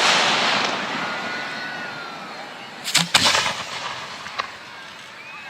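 Aerial fireworks shells going off: the echoing tail of a loud bang fades at the start, then two sharp bangs in quick succession about three seconds in, and a fainter crack a second later.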